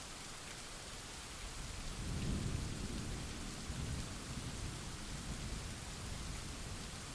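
Steady rain hiss with a low roll of thunder that swells about two seconds in and slowly rumbles away.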